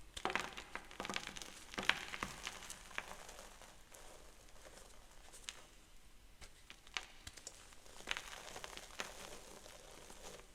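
Gym chalk being crushed and crumbled in the hands close to the microphone: dense crunchy crackling, heaviest over the first three seconds and again about eight seconds in.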